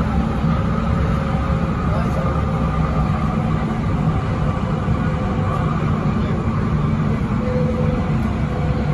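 Hyundai Rotem K-Train electric multiple unit running, heard inside the passenger car: a steady, unbroken low rumble of the train under way, with faint steady tones riding above it.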